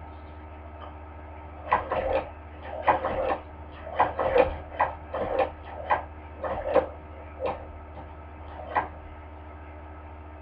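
Hand-crank cobbler sewing machine stitching slowly, its needle mechanism clacking about once or twice a second in uneven runs, from about two seconds in to near the end. A steady low hum runs underneath.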